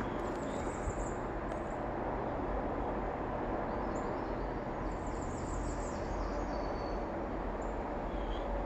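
Steady outdoor background noise with a few faint, high bird chirps, about a second in and again as a short run about five seconds in.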